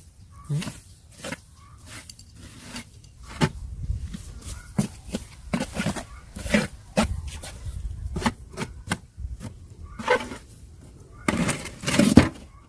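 Irregular sharp knocks, clicks and crackles of varied loudness, loudest in a cluster near the end, over a low steady rumble.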